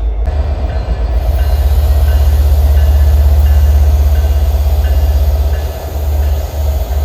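Diesel locomotives working in a rail yard: a deep engine rumble that swells and then eases off about six seconds in, with a faint short high tone repeating about twice a second over it.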